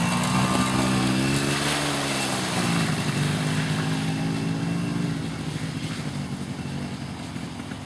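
Small 50cc engine of a kids' off-road vehicle running nearby, its pitch rising and falling as the throttle is worked. It grows quieter after about five seconds as the machine moves off.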